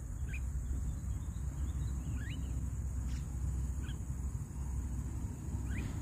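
A bird gives short rising chirps, about four spread across the moment, over a steady high insect drone and a low rumble.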